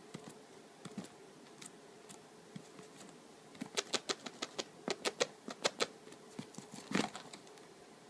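A cat's claws scratching inside a suitcase: scattered light scratches, then a quick run of sharp scratching strokes from about halfway through, with one louder knock near the end.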